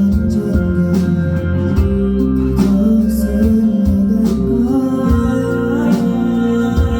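Band music playing a pop-rock song: guitars over a steady bass line and drums.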